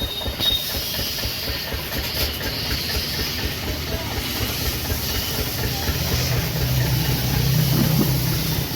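High-pressure washer jet spraying with a steady hiss over the hum of a motor, the hum growing louder about six seconds in.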